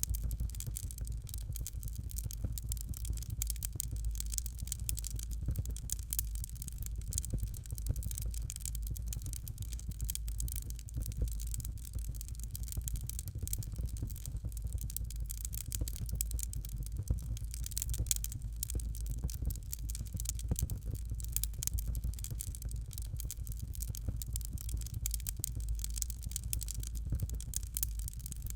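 Fire crackling in a fireplace: dense, irregular small crackles over a steady low rumble, with no pauses.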